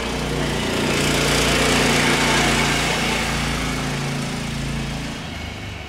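Small engine running at a steady speed, growing louder over the first two seconds, then fading away near the end.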